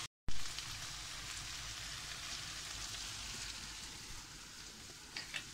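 Food sizzling quietly in a pan on a gas stove, a steady hiss after a brief gap at the start, with a couple of light clicks near the end.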